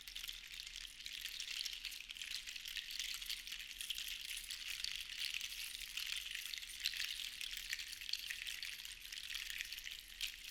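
Sea shells rattling together in a dense patter of tiny clicks, swelling and easing in uneven waves.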